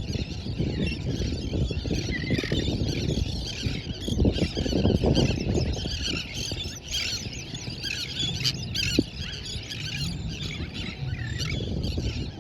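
Many shrill, squealing calls overlapping in a busy chatter, over a steady low rumble of wind.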